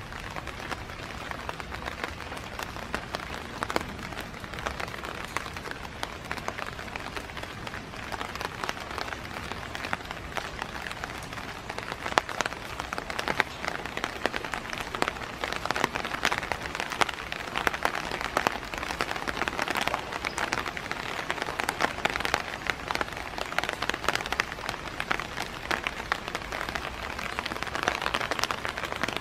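Steady rain, a dense haze of falling water with many close drops ticking through it, growing a little louder about twelve seconds in.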